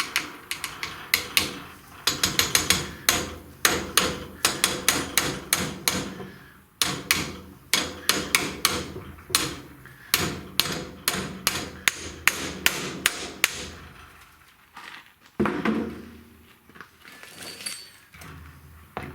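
A hammer tapping a new grease seal into a trailer wheel hub: quick repeated taps, several a second in runs, which stop about fourteen seconds in.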